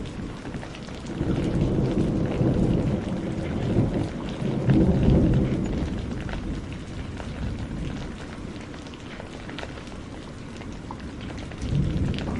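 Heavy rain falling steadily, with a long rolling thunder rumble that swells about a second in, peaks around five seconds and fades away, and a second rumble starting near the end.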